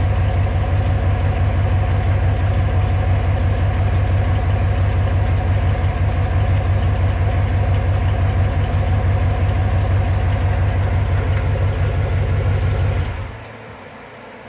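Mud truck's engine idling steadily with an even low pulse, then shut off about 13 seconds in.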